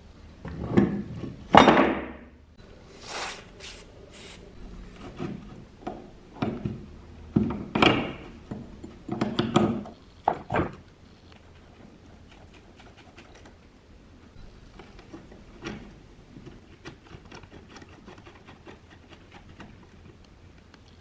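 Irregular knocks and scrapes of workshop parts being handled and set down, loudest over the first ten seconds, followed by faint scattered clicks.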